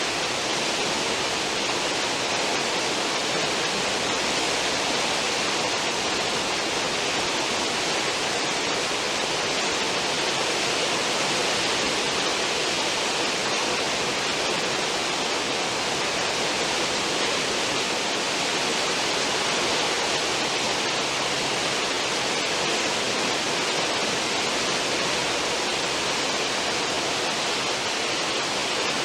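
A cruise ship's stern wake: a steady rush of churning seawater, even and unchanging.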